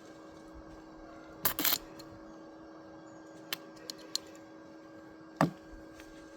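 A few sharp knocks and clicks over a steady low hum: a loud double knock about a second and a half in, three light clicks around the middle, and one loud knock near the end.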